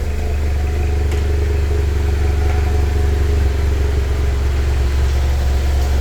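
Motorcycle engine running steadily at low revs, a constant low hum.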